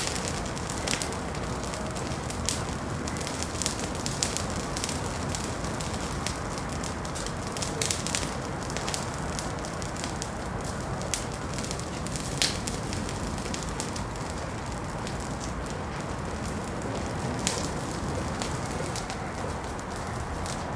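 Wood fire burning in a fireplace: a steady low rush with irregular sharp crackles and pops throughout.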